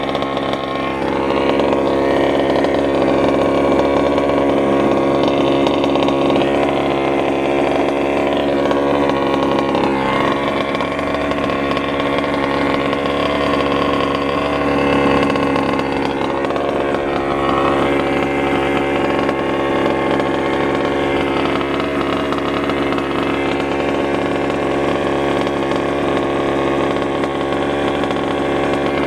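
Small Robin gas engine of a fifth-scale RC stadium truck running steadily, its pitch shifting a little now and then.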